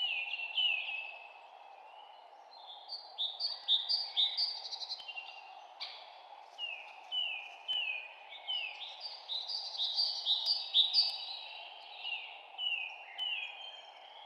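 Songbirds chirping, a rapid run of short calls that slide downward in pitch, several birds overlapping, over a steady background hiss.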